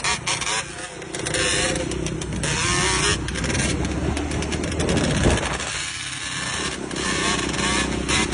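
Motorcycle engine running, its pitch rising and falling as it revs, under heavy noise.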